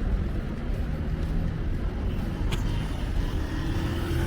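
Steady low vehicle rumble, with a single short click about two and a half seconds in.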